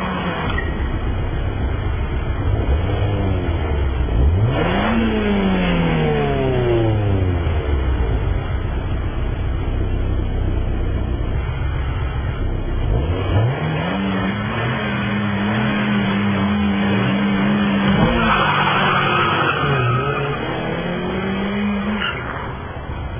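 Small Seat Panda car engine revving hard. A rev climbs sharply about four seconds in and falls away over the next few seconds, climbs again around thirteen seconds in and holds steady, then rises and falls. A burst of hiss comes about eighteen seconds in.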